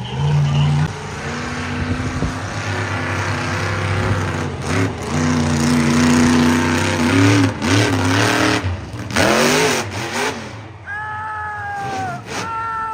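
Monster truck engines revving hard, the revs climbing and dropping again and again. Near the end a high whine slides steadily down in pitch.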